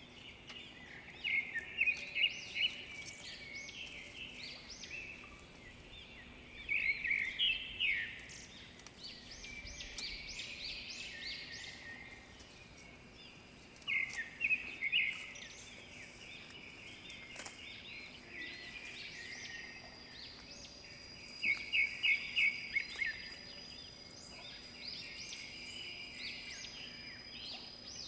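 A bird singing bursts of rapid, repeated chirping phrases every five to seven seconds over a steady outdoor hiss. A thin, steady high tone comes in about two-thirds of the way through.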